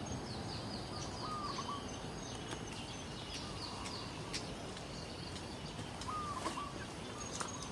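Birds chirping over a steady background hiss, with two short lower calls about a second in and again about six seconds in, and a few sharp clicks.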